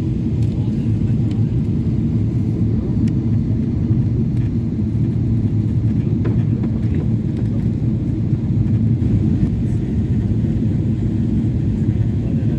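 Steady low rumble of a Boeing 777-300's engines and rushing air, heard inside the passenger cabin on the approach to landing.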